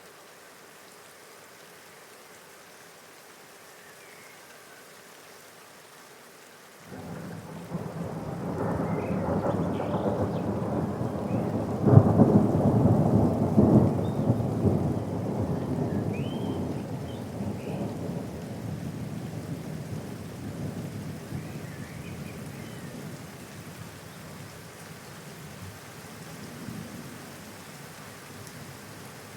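Steady rain, then about seven seconds in a peal of thunder starts suddenly, peaks with a sharp crack a few seconds later and rolls on, slowly fading away under the rain.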